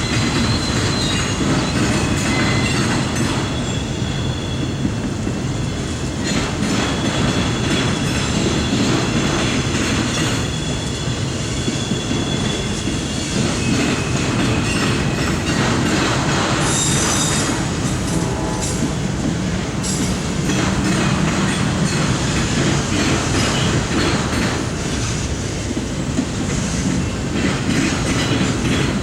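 CSX autorack freight train rolling past on steel rails: a steady rumble of wheels on track, with thin, high-pitched wheel squeals that come and go.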